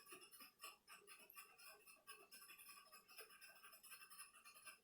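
Near silence, with faint, irregular small ticks and clicks from handling small parts.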